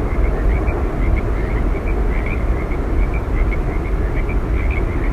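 Steady roar of Yosemite Falls' falling water with a deep rumble, overlaid by short, high chirps repeating several times a second.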